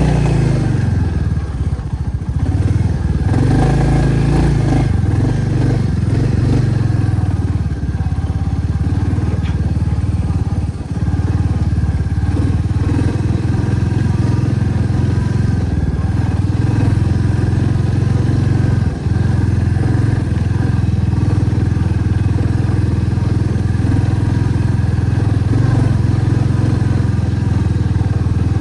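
Motorcycle engine running on the move. Its pitch rises and falls over the first few seconds with throttle changes, then holds steady.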